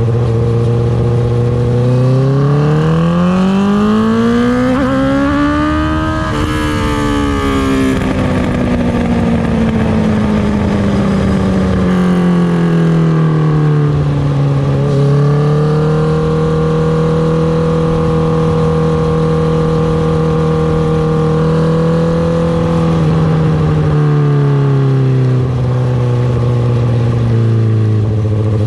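2019 Honda CB650R's inline-four engine through an Akrapovic Racing Line titanium exhaust. The engine pulls up through the revs for about four seconds, then falls away slowly. It rises a little and holds a steady note for several seconds, then drops back to a low steady note near the end.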